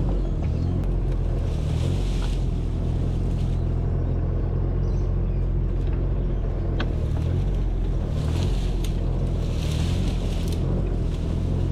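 An engine running steadily at low revs, with a rushing noise over it that swells a few times, like wind on the microphone.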